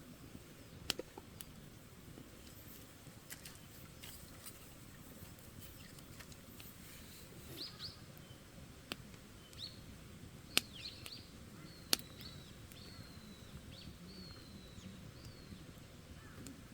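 Wood campfire crackling, with a few sharp pops scattered through it. Small birds give short, high, downward-sweeping chirps through the middle stretch.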